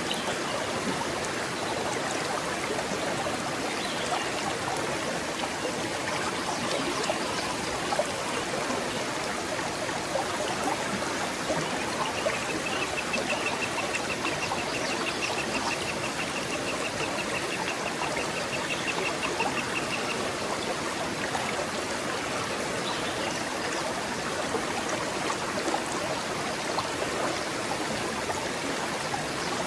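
Small forest stream flowing and trickling steadily over stones. About twelve seconds in, a high, rapid trill joins it for roughly eight seconds.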